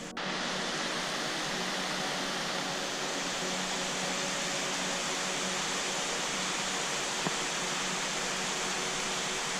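Steady rain falling on the forest foliage, an even unbroken hiss that starts abruptly at the beginning.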